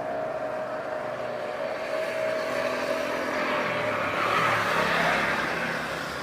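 Jet airliner passing low, its engine whine sinking slowly in pitch as the jet noise swells to its loudest about four to five seconds in.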